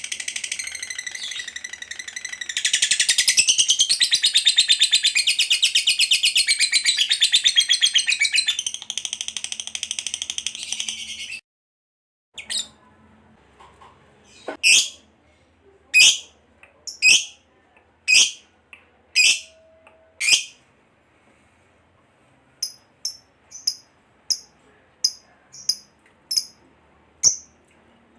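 Lovebird's long, rapid, high chattering trill (the 'ngekek panjang'), louder about three seconds in, that breaks off suddenly about eleven seconds in. After a short gap come single sharp chirps about a second apart, then quicker, shorter chirps about two a second near the end.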